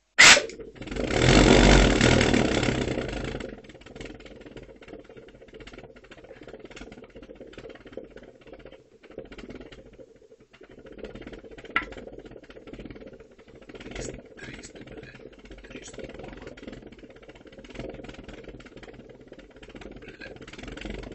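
Homemade pulsejet engine lighting with a sharp bang and running loudly for about three seconds before it dies away. Afterwards only a quieter, uneven rumble with occasional clicks.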